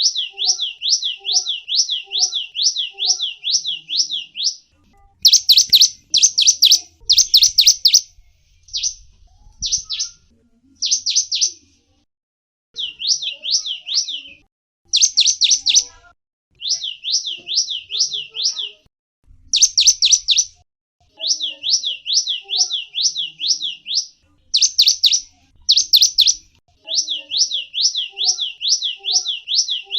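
Small bird calling with quick runs of high, sharply falling chirps, about six a second, each run lasting a few seconds with short pauses between, and a few louder separate chirps in between the runs.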